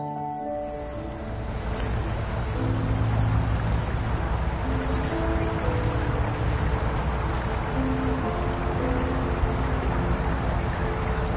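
A high-pitched insect trill, steady with a fast regular pulse of roughly four beats a second, over soft background music.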